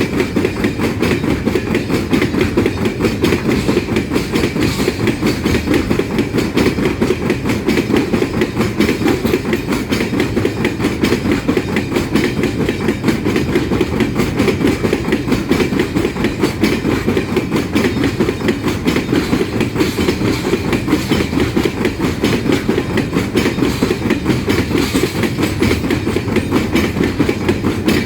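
Train of empty iron-ore wagons rolling steadily past, their wheels clacking rapidly over the rail joints.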